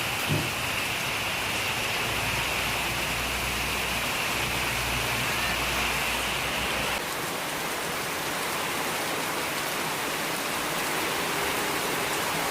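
Steady rain falling, an even hiss with a brief knock just after the start. About halfway through, a higher hiss in the rain sound drops away abruptly and the level dips slightly.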